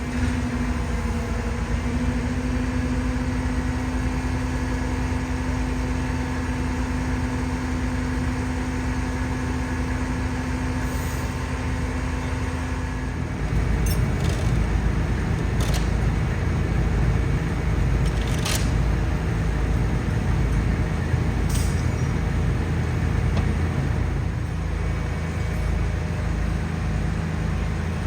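Heavy machinery engine running steadily. About halfway through it shifts to a lower, louder note, and a few sharp clicks or knocks sound over it.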